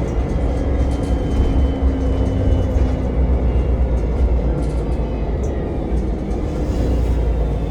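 Steady low rumble of a public-transport vehicle in motion, heard from inside, with faint steady whining tones over it.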